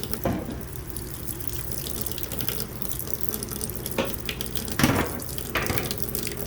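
Water running steadily from a tap into a sink, with a few sharp knocks about four and five seconds in.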